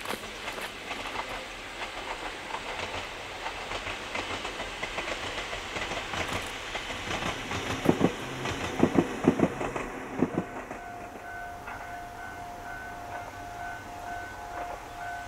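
An Ohmi Railway electric train running on jointed track with a steady clickety-clack, heaviest in a run of loud wheel knocks near the middle. Then a level-crossing warning bell starts ringing in a steady repeating pattern.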